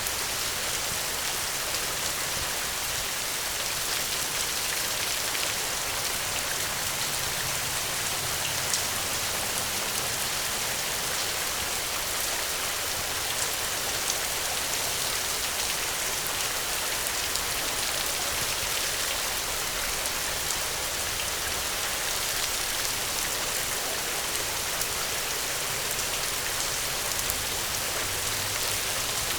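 Steady rain falling, a dense even hiss of raindrops on a surface with fine scattered drop ticks.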